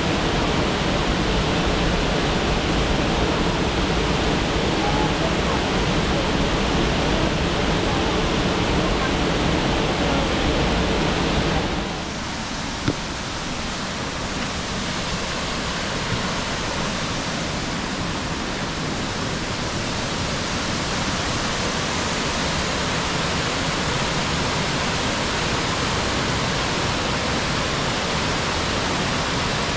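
Steady rush of a waterfall's falling water. About twelve seconds in it drops abruptly to a slightly quieter, duller rush, with one sharp click just after.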